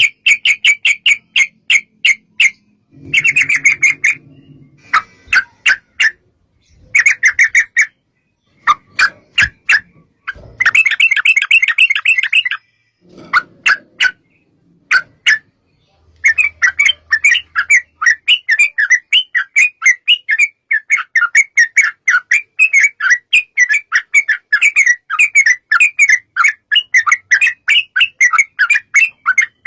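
Yellow-vented bulbul (trucukan) calling in rapid chattering note trains. In the first half they come in short bursts with pauses; from about halfway they run into one long, unbroken rapid series.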